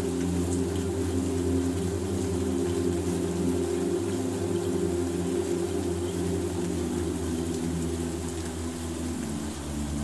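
Ambient relaxation music of sustained low drone chords layered over the steady hiss of rain; the chord shifts near the end.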